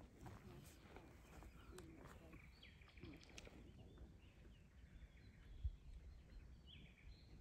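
Near silence: faint, scattered bird chirps over a low wind rumble, with one brief low thump about three-quarters of the way through.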